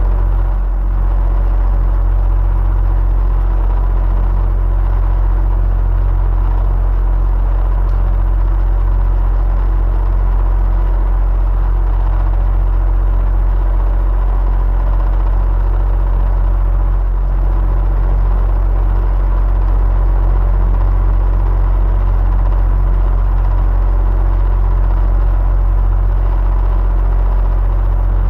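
Electric fan running steadily: an even, unbroken whir with a strong low hum and a few faint steady tones.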